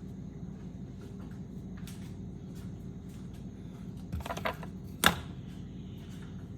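Kitchen handling noises: a few light clicks about four seconds in, then one sharp knock about a second later, over a steady low hum.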